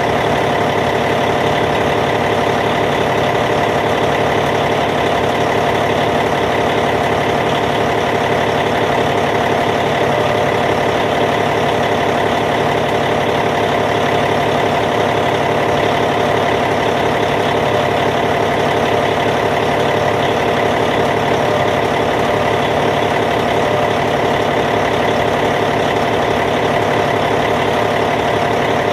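Caterpillar C15 inline six-cylinder diesel engine of a Cat D8T bulldozer idling steadily, with an even, unchanging hum.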